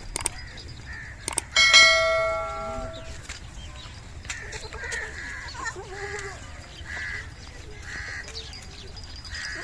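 A single metallic, bell-like clang about a second and a half in, ringing on for over a second. Then crows cawing over and over, about once a second.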